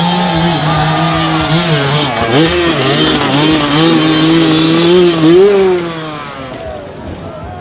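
Dirt bike engine held at high revs under load, with a few brief dips in pitch as the throttle is chopped. It revs up once more about five and a half seconds in, then falls away quieter.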